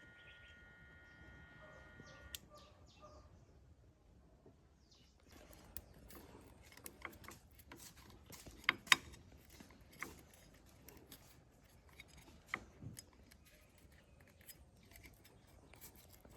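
Scattered sharp clicks and light taps of small tools and metal parts being handled, the loudest a quick pair about nine seconds in, over a faint hiss. A faint steady whine in the first couple of seconds cuts off with a click.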